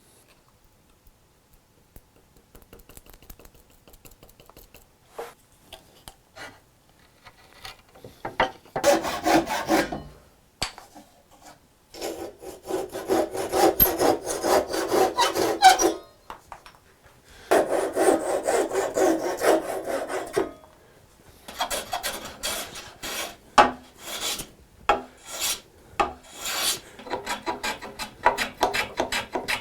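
A hand tool scraping and rubbing across wood. Faint scattered ticks give way to three long stretches of steady scraping, each a few seconds long, then quicker, shorter strokes near the end.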